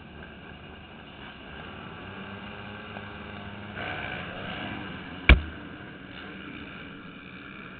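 Motocross bike engines running steadily, picked up by a helmet-mounted camera, with one sharp knock about five seconds in.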